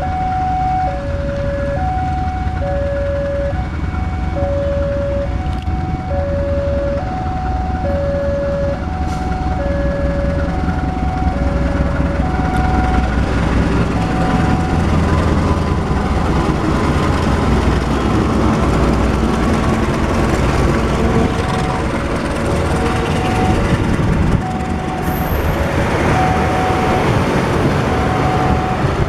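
Railway level-crossing warning alarm sounding two alternating tones over and over, about one pair a second, while the rumble of approaching CC 201 diesel-electric locomotives grows louder from about midway. Near the end the noise of the train itself rises as it draws up.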